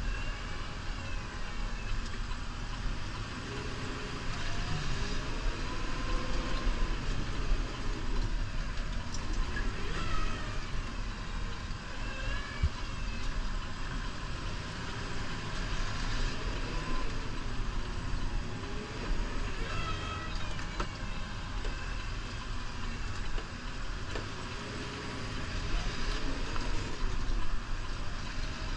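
Diesel engine of a New Holland Powerstar 75 tractor running under load while plowing snow, its pitch rising and falling every few seconds as the revs go up and down.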